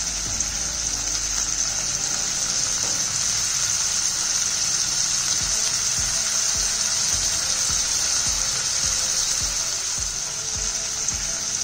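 Diced tomatoes sizzling in hot oil with fried onions in a pan, a steady hiss, with light knocks and scraping of a wooden spatula stirring them in during the second half.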